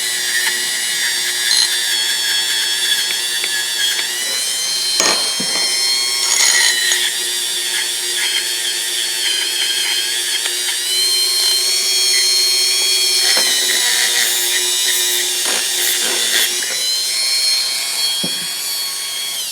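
High-speed rotary tool spinning a plastic fiber abrasive wheel against the steel of a pair of linesman pliers: a steady high-pitched whine whose pitch dips briefly a few times as the wheel is pressed into the work. It stops near the end.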